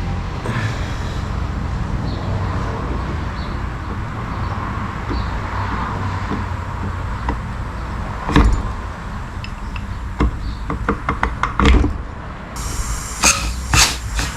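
Scattered knocks and clicks of parts being handled on a workbench, over a steady low hum. The loudest knocks come about two-thirds of the way in and again a few seconds later, with a quick run of clicks and taps near the end.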